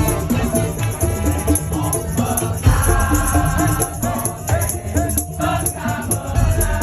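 Madurese daul (dug-dug) parade music played loud: heavy drumming with shakers and a pitched melody over it.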